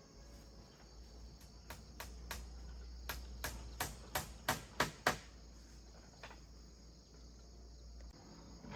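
Crickets chirring steadily, with a run of about a dozen sharp knocks, about three a second, that grow louder from about a second and a half in and stop about five seconds in.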